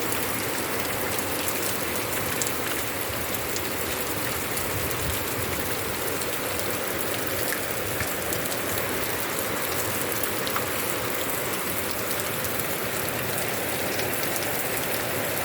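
Steady rain falling: a dense even hiss dotted with many fine ticks of individual drops striking.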